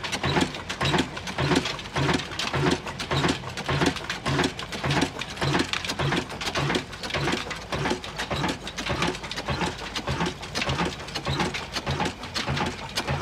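Old Ruston Hornsby black diesel engine running with a steady, even beat.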